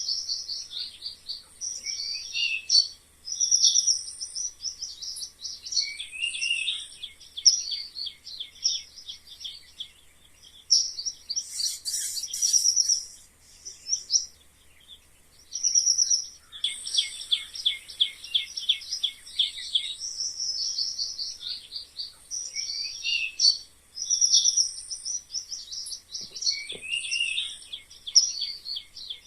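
Mice squeaking: runs of rapid, high-pitched chirps and trills with a few falling squeaks, in bursts separated by short pauses.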